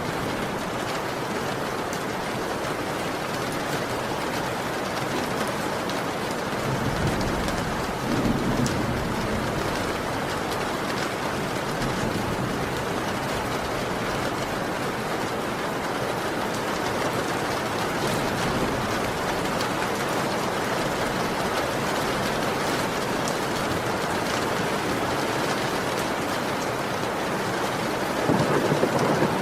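Steady heavy rain, with low rumbles of thunder about seven seconds in and again near the end.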